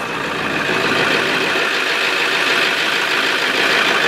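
1999 Ford F350's 7.3-litre Power Stroke V8 turbo diesel running steadily just after a cold start, having sat for four months. It gets louder over the first second, then holds level.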